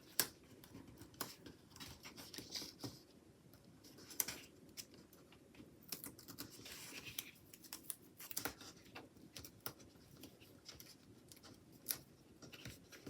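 Hands working small pieces of washi tape and stickers on paper planner sheets: scattered light clicks and taps with a few short rustles, faint and irregular.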